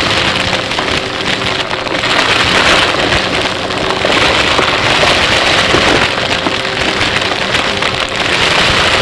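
Close-miked vacuum cleaner running, its motor a steady whine under a crackling rush of air and debris through the intake that swells and eases with each pass.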